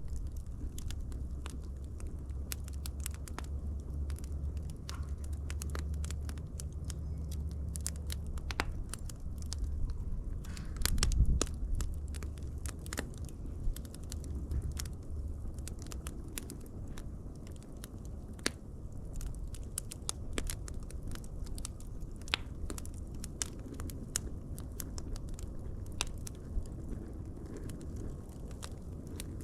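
Wood fire burning with irregular crackles and pops over a low rumble of flame, with a louder burst of pops about eleven seconds in.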